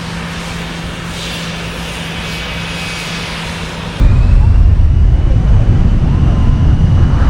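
Jet airliner engines running at the end of the runway, a steady hum with a faint whine. About four seconds in, the sound jumps suddenly to a loud, low buffeting as the jet blast's wind hits the microphone.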